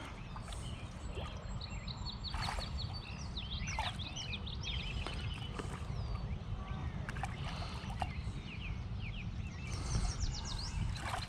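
Water sloshing against a small boat over a steady low rumble, with small birds chirping in quick runs of short high notes, thickest in the middle and near the end.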